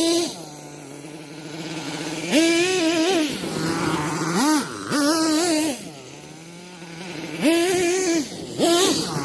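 Kyosho Mad Force nitro RC monster truck's two-stroke glow engine running, settling to a steady idle and revving up sharply about four times, each time dropping back. The owner calls the idle set a little too high.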